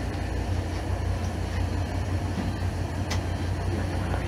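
Running noise of a 1980s-era train heard from on board: a steady low rumble and hum as it picks up speed again and labours up a gradient. One sharp click about three seconds in.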